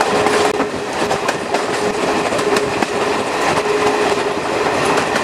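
A steam-hauled passenger train heard from a coach window while running: the coach wheels click and clatter over the rail joints under a steady rushing noise, with a steady tone running underneath.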